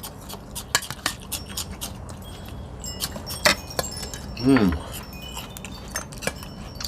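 Light scattered clicks and clinks of shells and utensils against plates while seafood salad is eaten by hand, with short high tinkling tones behind and a brief murmur about four and a half seconds in.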